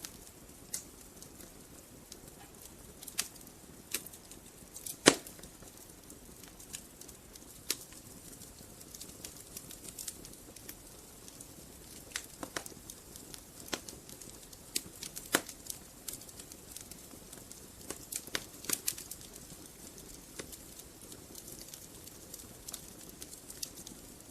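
Wood fire burning in a fireplace, crackling and popping irregularly over a faint steady hiss, with one sharp, loud pop about five seconds in.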